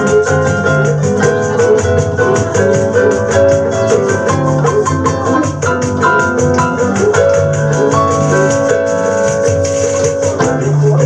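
Live bossa nova band playing an instrumental passage: keyboard and guitar chords over a bass line, with a shaker keeping an even, rapid pulse.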